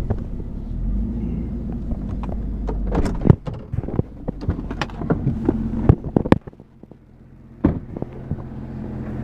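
Low rumble of a car with its engine running, then clicks and several sharp thunks from a car door being opened and shut. After a thunk about six seconds in, the rumble drops away.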